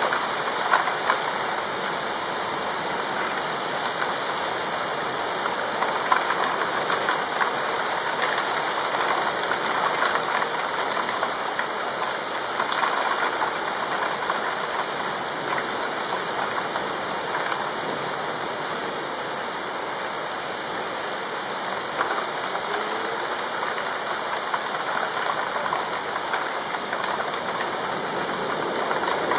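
Steady heavy rain falling during a night thunderstorm, an even hiss with a few sharper drop splashes about a second and six seconds in.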